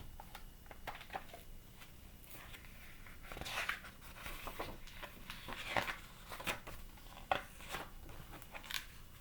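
Faint paper handling: soft rustles and swishes, with a few light clicks, as the pages of a picture book are turned and handled.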